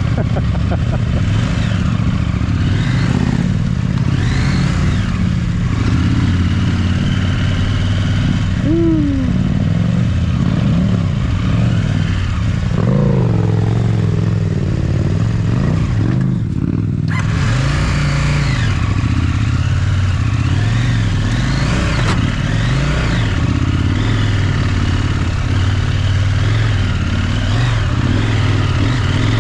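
Large adventure motorcycle's parallel-twin engine in low gear, revving up and dropping back again and again as the bike climbs over rocks.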